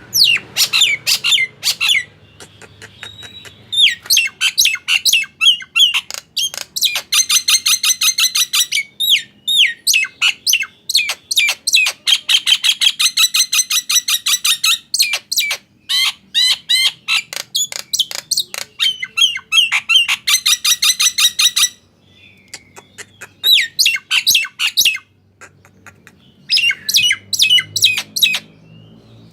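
Nias hill myna calling loudly in rapid runs of sharp, downward-sweeping squawking notes, with short pauses between runs.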